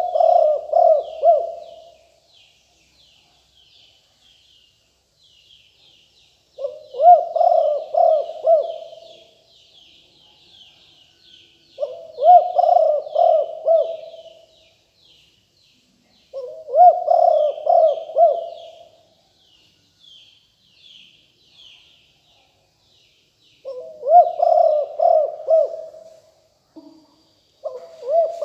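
Spotted dove cooing: phrases of several coos, each about two seconds long, repeated roughly every five seconds. Faint, quick high chirping of small birds runs behind.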